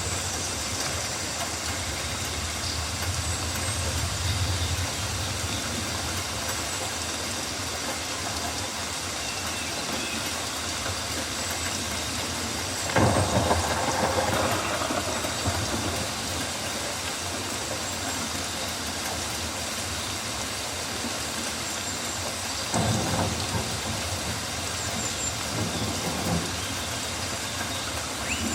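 Steady rain falling on rainforest foliage, an even hiss with a low rumble underneath. A louder, rougher swell rises about halfway through and lasts about a second and a half, with two smaller ones near the end.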